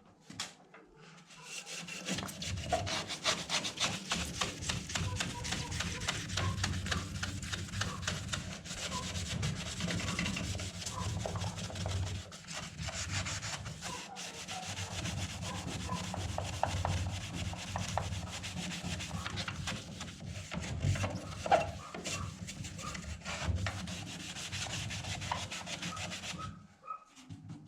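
A sponge coated in damp wood ash scrubbing soot off a stove's glass door, with a steady gritty rubbing of many short strokes. It starts about a second and a half in and stops shortly before the end.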